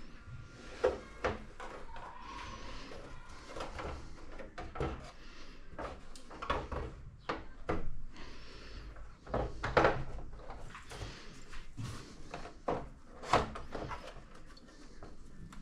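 Handling noise from work on the TV: irregular clicks, taps and knocks with rubbing and rustling in between, a few sharper knocks standing out.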